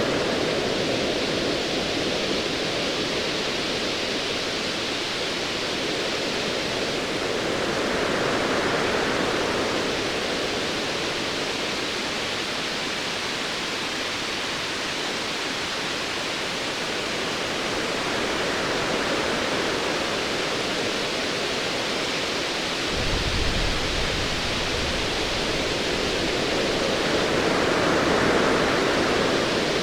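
Ocean waves rolling in and washing over, swelling about every nine to ten seconds over a steady surf hiss. Near the end a low, distant rumble of thunder starts underneath.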